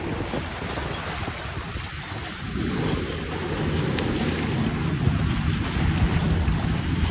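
A boat's engine running as it passes through the inlet, its low rumble growing louder about a third of the way in, over wind buffeting the microphone and the wash of water.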